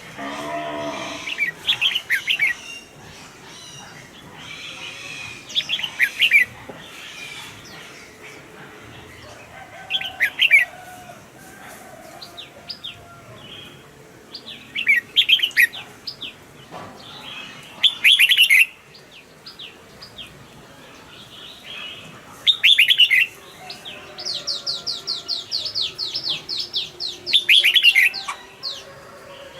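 Red-whiskered bulbul singing short, loud, warbling phrases every few seconds. Near the end there is a fast run of quick high notes.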